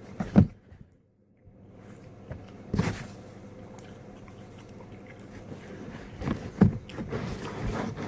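A person biting and chewing pizza close to the microphone: a few short, louder bites or mouth sounds near the start, about three seconds in, and a cluster near the end.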